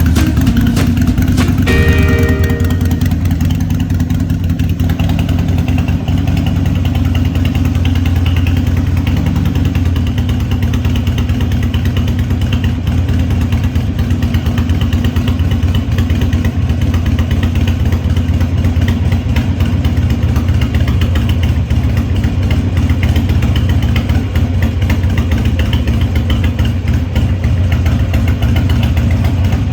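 2004 Harley-Davidson Sportster 1200's carbureted V-twin idling steadily through Motor Stage narrow slash-cut aftermarket mufflers.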